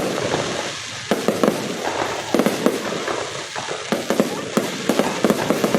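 Fireworks going off: repeated clusters of sharp bangs and crackling pops, one after another, over a constant hiss.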